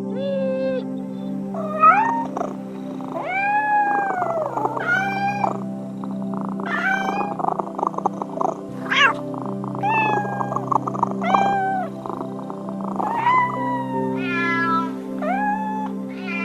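A cat meowing over and over, short arching calls about one a second, over steady background music.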